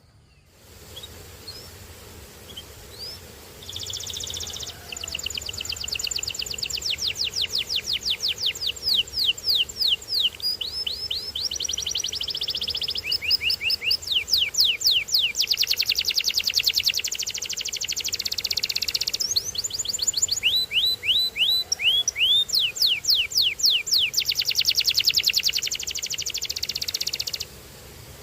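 Canary singing: a few scattered chirps, then from about four seconds in a long continuous song of rapid rolls and trills, runs of quick repeated falling whistled notes in changing phrases, which stops shortly before the end.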